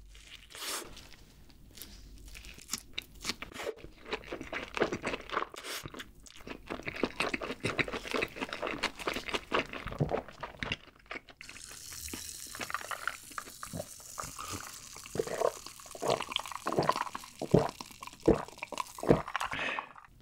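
Close-miked chewing of a mouthful of burger: a run of wet, crunchy mouth sounds and smacks. About halfway through a high hiss comes in, with sharper clicks and rustles as a gloved hand handles a burger.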